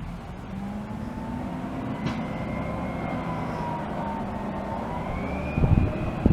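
Garbage truck's brakes squealing: a thin, wavering high whine that drifts slowly in pitch and climbs higher near the end, over the low running of the truck's engine. A few heavy low thumps come near the end.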